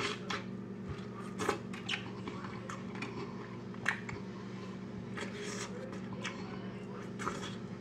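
Close-up eating sounds: a chip with Rotel cheese dip bitten and chewed, with scattered crunches and wet mouth clicks over a steady low hum.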